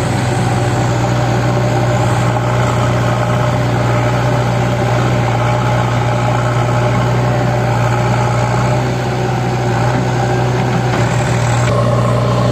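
Sonalika 750 tractor's diesel engine running at a steady speed, a constant low hum.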